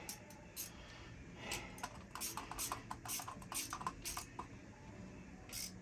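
Faint, irregular metallic clicks and light taps from hand tools and parts being worked on in the boat's engine compartment, coming quicker in the middle.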